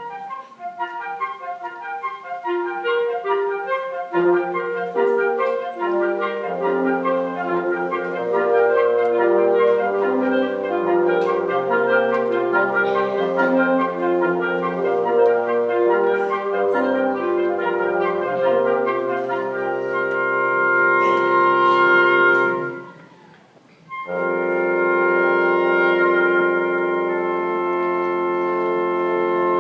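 Instrumental ensemble playing, with wind instruments to the fore and a clarinet prominent. It plays moving lines of sustained notes over a stepping bass, stops almost completely for about a second near the end, then sounds a long held chord.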